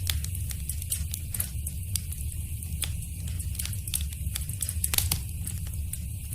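Wood fire crackling in a fireplace: irregular sharp pops and snaps over a low, steady rumble of burning, with one louder pop about five seconds in.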